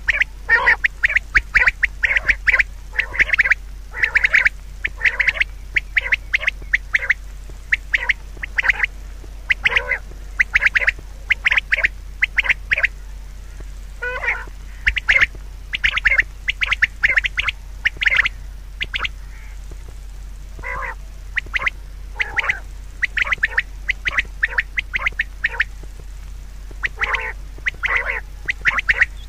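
Birds calling in quick runs of short calls, several a second, with brief pauses between the runs.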